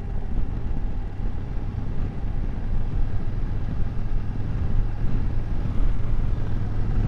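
BMW F750GS parallel-twin motorcycle engine running at a steady riding speed, with wind and road rumble. A low steady hum grows stronger about five seconds in.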